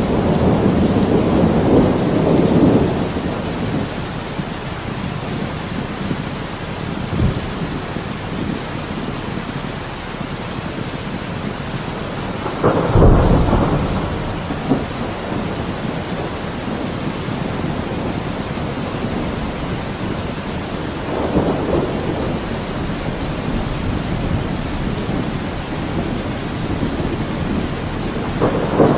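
Thunderstorm: steady rain with rolls of thunder, one rumble fading over the first few seconds, a sharper, louder clap about halfway through, and softer rumbles later on.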